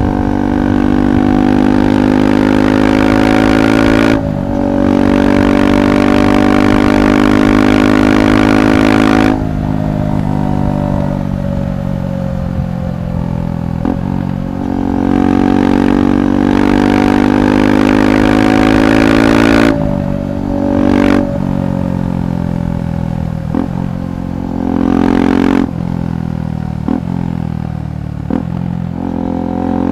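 KTM 390 Adventure SW's single-cylinder engine through a Red Rooster aftermarket exhaust while riding. It holds steady throttle with a brief dip about four seconds in, rolls off with a falling pitch after about nine seconds, pulls again, then makes several short roll-offs and blips with sharp cracks in the last ten seconds.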